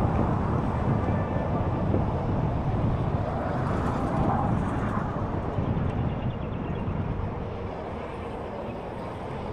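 Wind buffeting the microphone of a moving rider, a low, uneven rumble that eases slightly toward the end.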